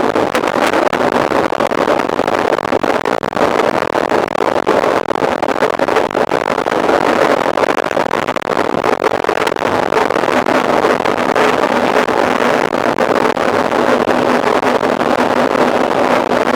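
Steady rolling noise of a mountain bike being ridden on the trail, with many small clicks and rattles through it.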